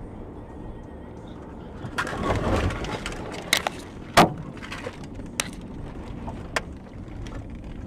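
Car road noise on a dashcam, with a louder rush about two seconds in and a string of sharp bangs and knocks, the loudest about four seconds in, typical of a car collision.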